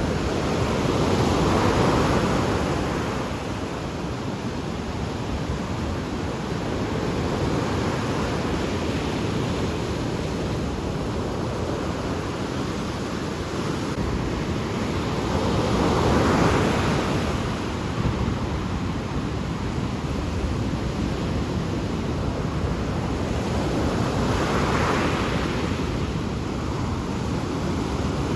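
Ocean waves breaking in a steady rushing wash. The wash swells louder three times: about two seconds in, just past the middle, and near the end.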